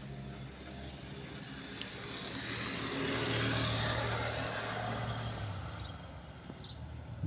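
Light propeller plane flying overhead: its engine drone grows louder to a peak about halfway through, then drops a little in pitch and fades as it passes.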